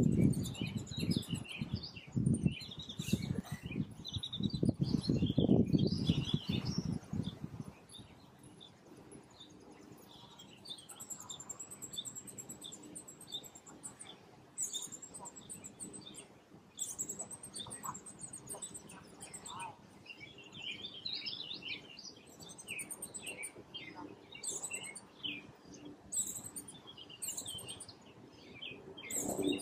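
Birds chirping: many short, high chirps and tweets, coming in quick runs and clusters. A louder low rustling rumble sits under them for the first seven seconds or so, then drops away.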